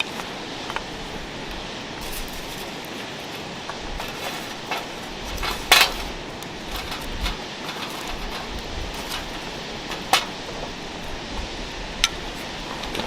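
Metal cookware clinking and knocking a few times over a campfire, the loudest knock a little before halfway, over a steady background hiss.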